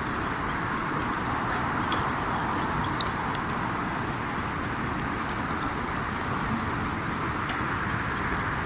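Wood campfire burning: a steady rush of flame and hiss, with a few sharp pops and crackles from the burning wood.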